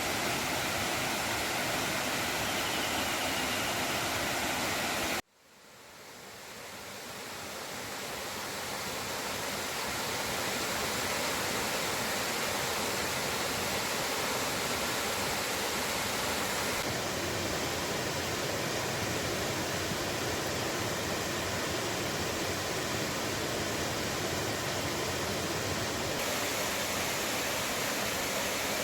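Waterfall rushing, a steady even roar of falling water. About five seconds in the sound cuts out abruptly, then fades back up over several seconds to the same steady level.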